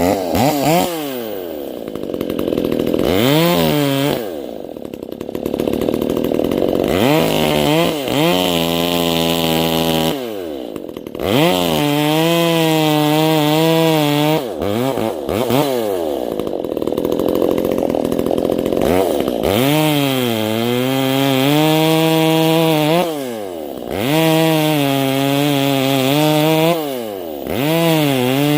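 Ported, muffler-modded Stihl 025 (MS250) two-stroke chainsaw cutting frozen white oak. Its pitch sags as the chain bites and drops back toward idle several times between runs at full throttle.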